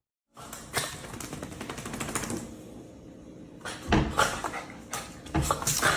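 A dog scrabbling and moving about: rustling with many small clicks, then several louder thumps about two-thirds of the way through.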